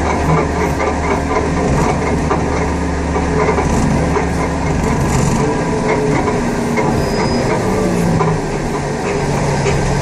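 Heavy diesel engine of an aircraft pushback tug running steadily under load, its engine note shifting in pitch a few times.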